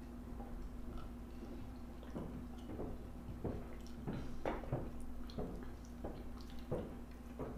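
Close-up chewing and wet mouth sounds of a person eating, irregular smacking clicks that start about two seconds in.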